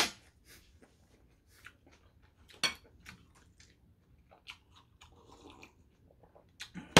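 Close-up chewing and mouth sounds of a person eating: wet clicks and sharp lip smacks, one loud smack about a third of the way in. A soft sip from a mug a little past halfway.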